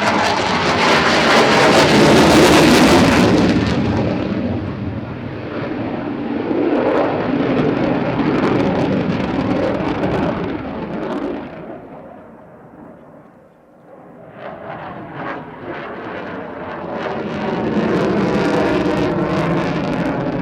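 Panavia Tornado IDS's twin RB199 turbofan engines as the jet passes in a flying display: loud jet noise that swells to a peak, fades away, then builds again as the aircraft comes round.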